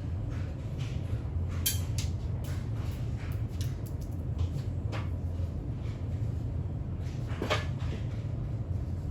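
Irregular sharp clicks and knocks from coffee machine parts being handled during disassembly, over a steady low hum. The loudest knock comes about seven and a half seconds in.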